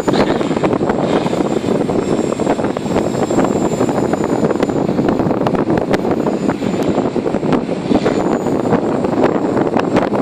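Walkera V450D03 electric RC helicopter in flight: a steady whirr of rotor blades and brushless motor with a thin high whine that wavers slightly, mixed with strong wind on the microphone.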